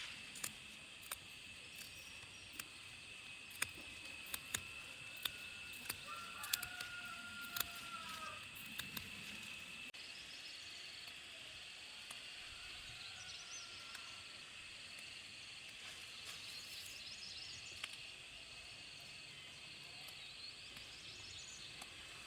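Outdoor rural ambience: a steady high-pitched drone like insects, with a few short bird-like chirps. Sharp clicks or taps come over the first eight seconds or so.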